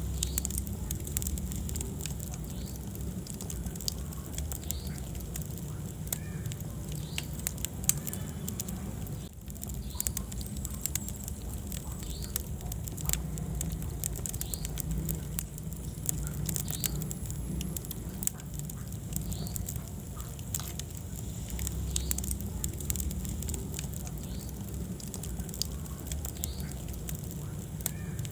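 Wood fire burning in a fireplace: dense, irregular crackles and pops over a low, steady rumble of the flames.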